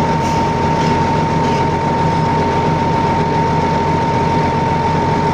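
Dump truck's engine running steadily, with a constant high-pitched whine over the rumble.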